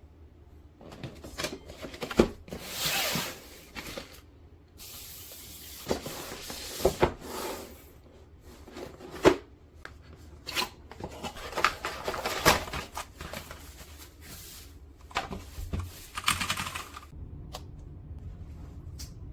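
Hands handling things: scattered sharp clicks and knocks with several stretches of rustling and rubbing.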